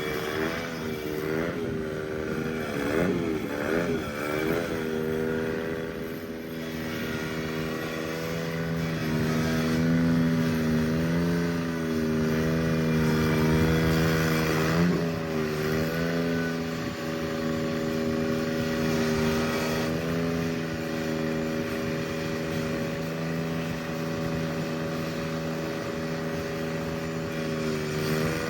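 Cub Cadet 782 garden tractor engine running in −6 degree cold. Its speed wavers up and down for the first few seconds, dips once about halfway through, and then settles to a steady run.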